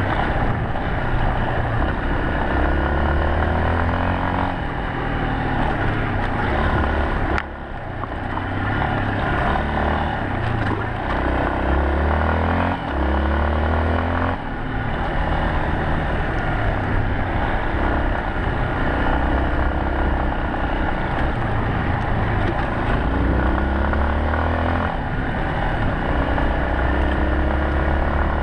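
Yamaha Serow 250's single-cylinder four-stroke engine under way, its pitch climbing again and again and then dropping as it accelerates and shifts, over steady wind and road noise. The level dips briefly about seven seconds in.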